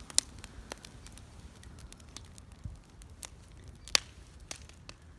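Bonfire crackling, with scattered sharp pops, two louder ones just after the start and about four seconds in, over a low rumble of the burning fire.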